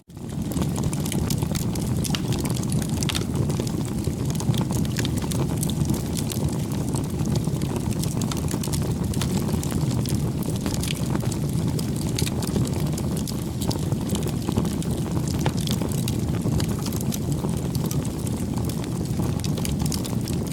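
Campfire burning: a steady low rushing of flames under frequent small crackles and pops. The sound drops out for an instant at the very start.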